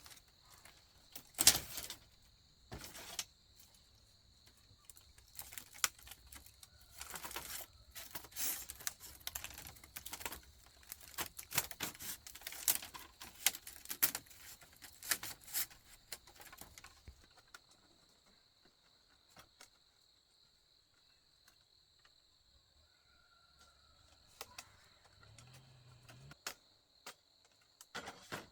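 Irregular clicking, tapping and knocking from handwork, busy for about the first 17 seconds and then down to a few scattered knocks, over a faint steady high-pitched tone.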